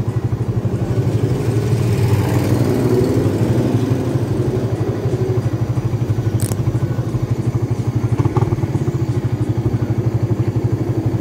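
Motorcycle engine idling with a steady, fast low pulse while the bike stands still. One sharp click sounds about six and a half seconds in.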